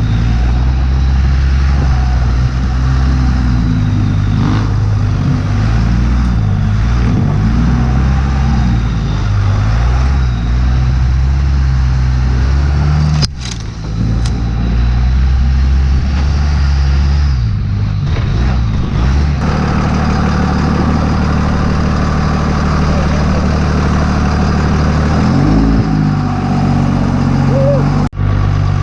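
Second-generation Dodge Ram's 5.9-litre Cummins inline-six diesel running under way over rough ground, its pitch rising and falling with the throttle. The sound breaks off abruptly twice, about thirteen seconds in and near the end.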